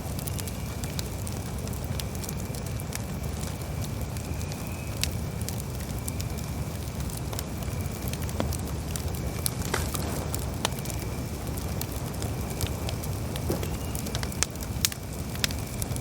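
Campfire burning: a steady low rumble of flames with scattered sharp crackles and pops from the burning wood, a couple of louder pops near the end, and a faint steady high tone behind.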